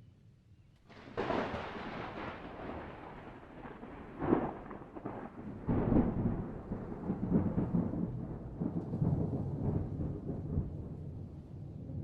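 Thunder: a sudden crack about a second in, then a long rolling rumble with sharper claps about four and six seconds in.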